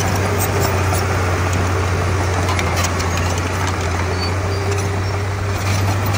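Komatsu D31P bulldozer's diesel engine running steadily under load, with faint clicks scattered through it.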